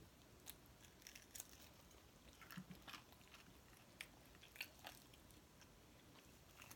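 Faint, scattered clicks and crackles of close-miked chewing and biting on fried chicken wings, with the crisp skin being pulled apart by hand.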